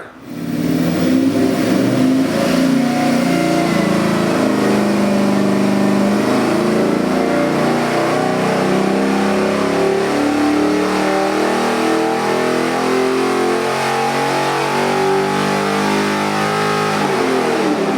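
Proformance Unlimited LS 427-cubic-inch V8 crate engine running hard at high revs, holding a loud, fairly steady note with small shifts in pitch, then coming off the throttle with the revs falling away near the end.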